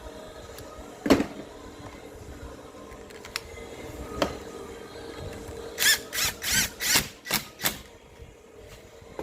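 Repair-shop tool work: a few separate knocks and clicks, then a quick run of about seven short bursts of a power tool in under two seconds.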